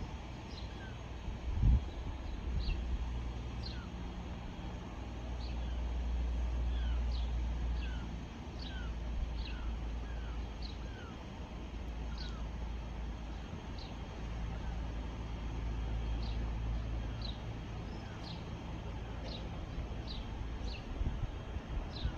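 Small birds chirping again and again, short high downward-sweeping calls about once or twice a second, over a steady low outdoor rumble that swells twice. A single thump sounds near the start.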